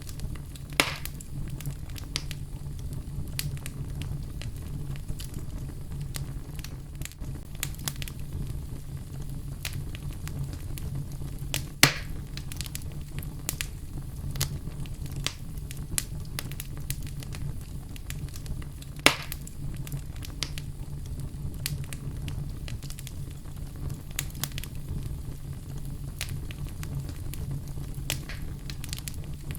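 Wood fire burning in a fireplace: a steady low rumble of the flames with constant crackling, and three louder sharp pops about a second in, near the middle and about two-thirds of the way through.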